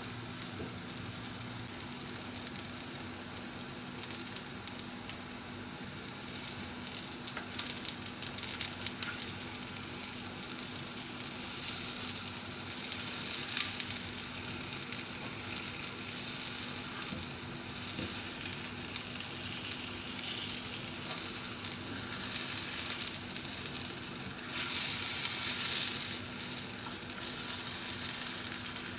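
Kala chana and besan kababs shallow-frying in a little oil in a frying pan: a steady sizzle and crackle, with a spatula clicking against the pan now and then. The sizzle swells briefly near the end.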